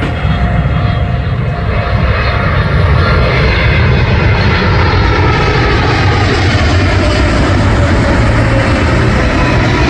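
Jet airliner's engines close by, a loud, steady noise that swells over the first few seconds and then holds, with faint tones slowly falling in pitch.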